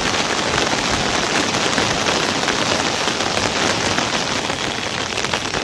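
Heavy rain falling steadily: a loud, even hiss with a dense patter of drops.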